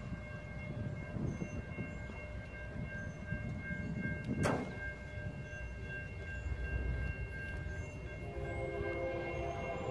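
Approaching train: a low rumble throughout, then from about eight seconds in a chord of steady tones that fits the locomotive's horn starting to sound.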